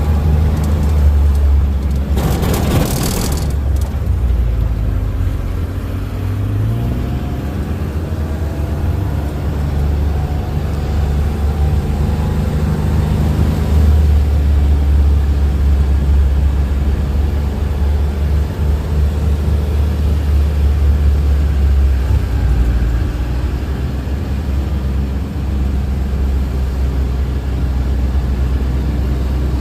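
A motor vehicle running under way, with a steady low rumble and a short loud rush of noise about two seconds in. Its engine note rises gradually from about six seconds in as it speeds up.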